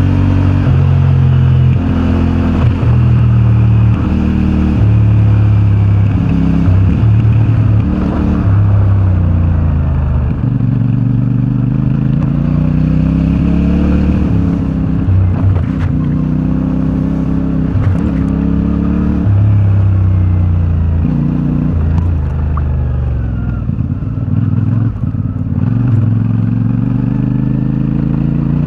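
CFMoto 450MT's parallel-twin engine through its stock exhaust, ridden at low speed with the throttle opened and closed over and over, so the engine note keeps stepping up and down. A few short knocks and clatter come through along the way.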